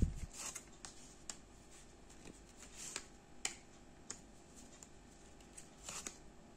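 Fortune-telling cards being handled and drawn from the deck: a dozen or so soft, irregular card snaps and taps.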